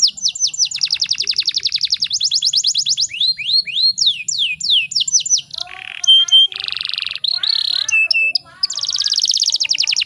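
Domestic canary singing: runs of quick down-slurred whistles and fast, rattling trills, switching phrase every second or two, with a short stretch of lower, buzzy notes about two-thirds of the way through.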